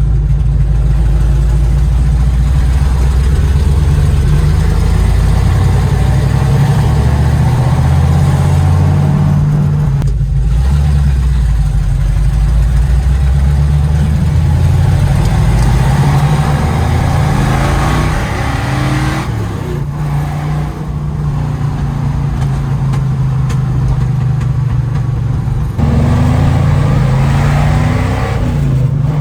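Car being driven, its engine rumbling steadily. The engine note climbs as the car accelerates around the middle, eases off for several seconds, then picks up again near the end.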